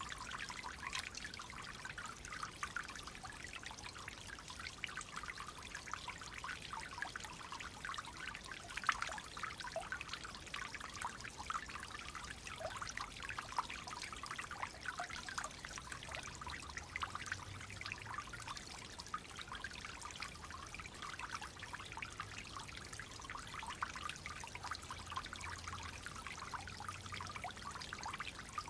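Clear flowing water trickling and babbling steadily, a bright, busy splashing full of small droplet-like plinks.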